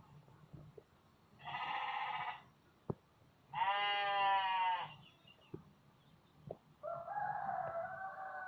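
Three drawn-out, bleat-like animal calls, each a second or more long, with the second the loudest and the last sliding down slightly in pitch; faint scattered clicks in between.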